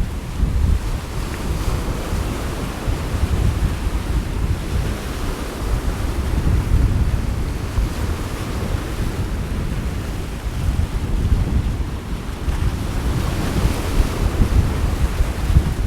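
Sea waves washing ashore with gusting wind buffeting the microphone, a heavy low rumble that swells and eases every few seconds.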